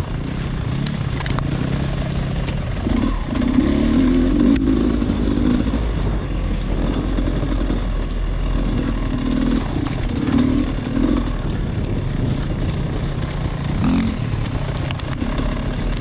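Dirt bike engine running under load on a trail, swelling and easing as the throttle is worked, with louder pulls about four seconds in, around ten seconds and near the end. Small knocks and rattles of the bike over rough ground sound throughout.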